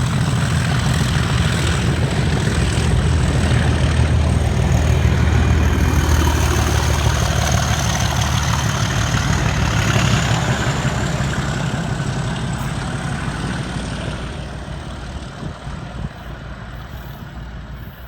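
Diesel engine of a Network Rail test train running with a deep, steady throb, growing gradually fainter from about ten seconds in.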